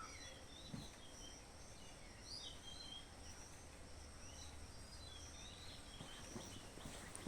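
Small birds chirping faintly, short high calls scattered throughout, over a steady low background noise.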